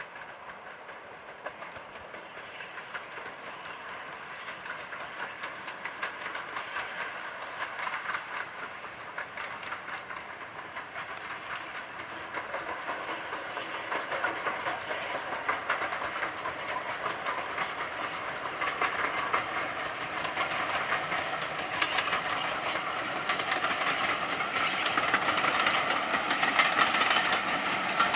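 Steam-hauled train approaching, growing steadily louder, with the locomotive's steam and the rhythmic clatter of wheels over rail joints.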